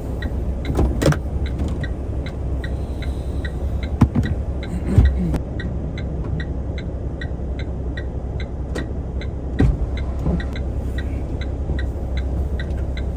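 Dongfeng truck's diesel engine idling steadily, heard from inside the cab, with an even ticking about twice a second and a few knocks and bumps.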